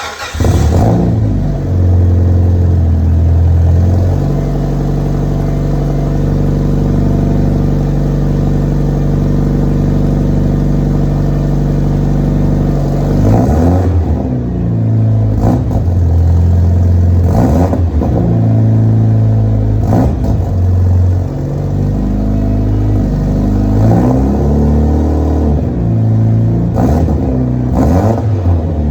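Mitsubishi Lancer Evo IX's turbocharged 2.0-litre four-cylinder (4G63) starting from cold through a superSprint Group N exhaust with no catalytic converter. It fires right at the start and settles into a steady fast cold idle. From about halfway through it is blipped with short throttle revs, about eight of them, some in quick pairs.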